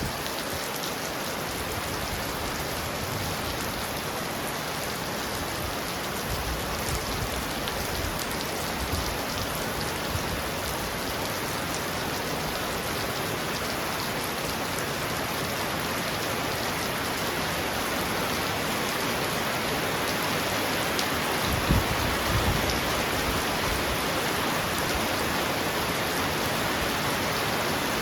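Heavy rain falling steadily on a roof, an even hiss. About three-quarters of the way through there is a short low rumble.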